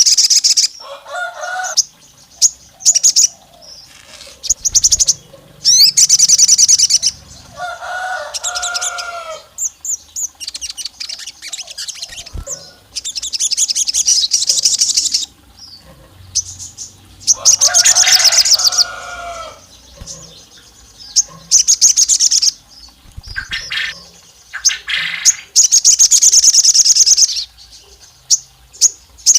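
Sogon songbird calling in repeated bursts of rapid, high-pitched chattering trills, each one to two seconds long with short pauses between, some carrying lower paired notes beneath; a sogon song used as a lure, said to resemble a female calling a male.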